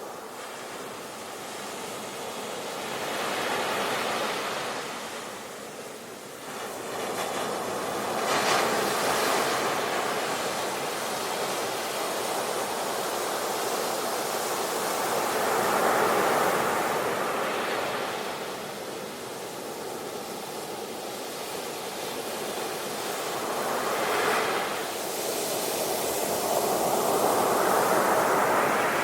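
Ocean waves breaking on a shore, surf washing in and out with swells every few seconds.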